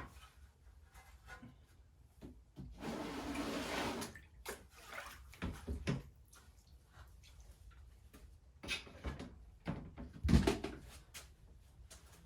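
Scattered knocks and clunks of a radiator being worked up and out of an engine bay. About three seconds in comes a brief pour of liquid, about a second long.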